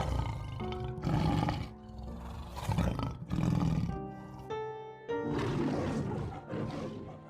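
A big cat roaring several times, each roar in a separate burst, over background music.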